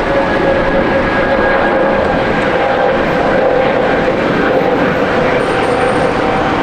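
Jet airliner's engines, loud and steady, with a few steady whining tones over the rush.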